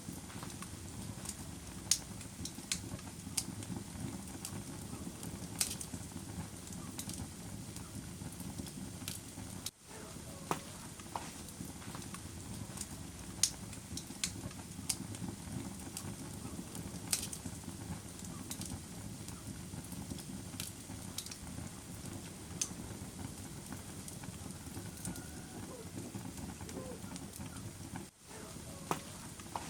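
Wood fire crackling in a fireplace: a steady low rush of burning with scattered sharp pops and snaps. The sound dips out briefly twice, about ten seconds in and near the end.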